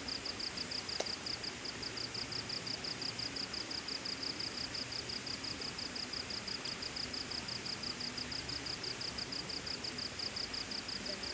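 An insect, cricket-like, chirping in a steady, even pulse of about five high chirps a second, over a steady wash of flowing river water.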